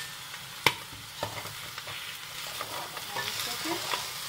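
Okra and lamb sizzling as they fry in a stainless steel pot while a metal spoon stirs them. There is a sharp metal clink about two-thirds of a second in, then lighter scrapes and taps of the spoon against the pot over a steady sizzle.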